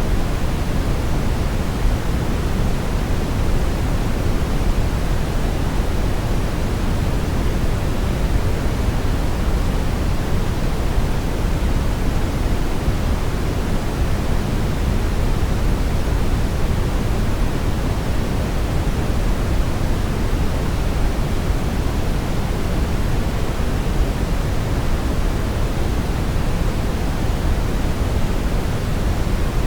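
Steady brown noise: an even, unchanging rumbling hiss, strongest in the low end and fading toward the highs, with no events or variation.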